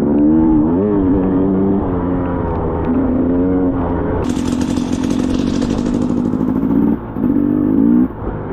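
Two-stroke KTM dirt bike engine revving up and down as the throttle is worked, its pitch rising and falling. Partway through, a hiss joins it for a couple of seconds, and the engine drops off briefly twice near the end.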